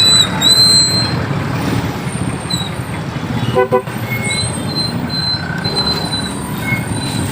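Road traffic with a steady engine rumble, a short vehicle horn toot about halfway through, and thin high squealing tones coming and going.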